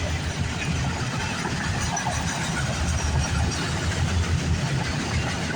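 CN freight train M301 rolling past, its wheels on the rails making a steady, loud rumble.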